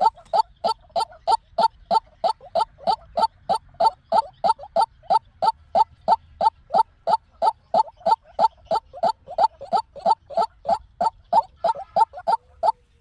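White-breasted waterhen calling: a fast, unbroken run of short, harsh repeated notes, about four a second.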